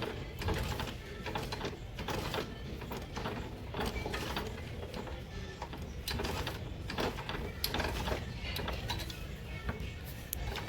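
Irregular light clicks and metal clatter, as of metal parts and tools being handled, over a low steady hum.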